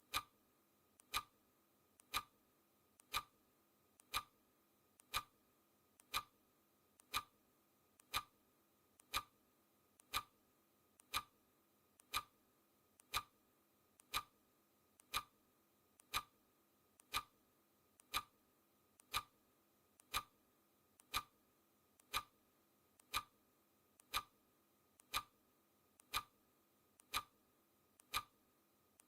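Clock ticking sound effect: one sharp, steady tick about every second.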